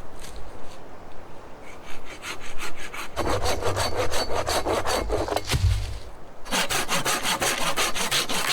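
Hand saw cutting through wood in quick, rhythmic back-and-forth strokes, in two runs with a brief pause about six seconds in.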